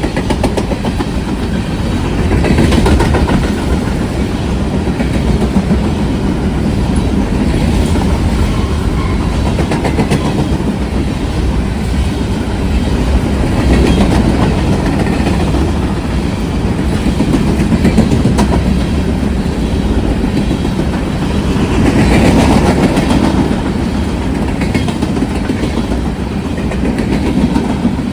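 A train rolling past at close range: a steady rumble of railcar wheels with clickety-clack over the rail joints, rising and falling in waves as the cars go by.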